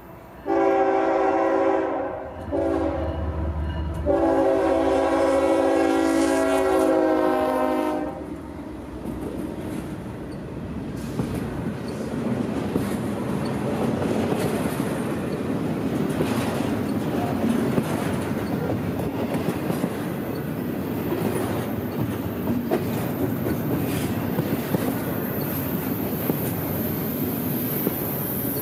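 Diesel freight locomotive's air horn sounding three blasts, the last about four seconds long, over the low rumble of its engine. Then a double-stack intermodal train rolling past close by, a steady rumble with its wheels clicking over the rail joints.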